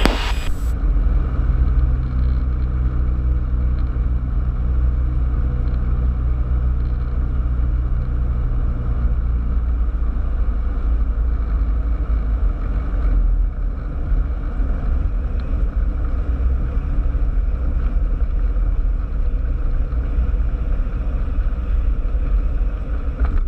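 Cessna 172's piston engine and propeller droning steadily as heard inside the cabin. A steady low hum in the drone fades about ten seconds in, and the sound dips briefly a few seconds later.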